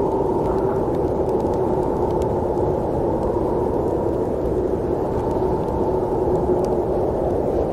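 Steady low rumble of a moving train, even and unbroken, with a few faint ticks above it.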